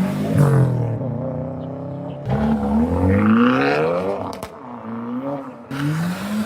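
Car engines revving hard as cars pull away, the pitch sweeping up and dropping back several times, with a sharp crack about four and a half seconds in.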